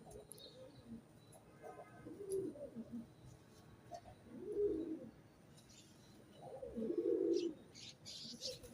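Pigeons cooing several times, their low calls a couple of seconds apart, with short high chirps from smaller birds in the last couple of seconds.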